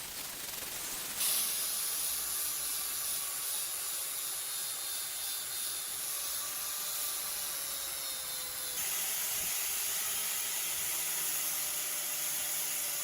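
A steady, high hiss that starts abruptly about a second in and changes in tone about nine seconds in.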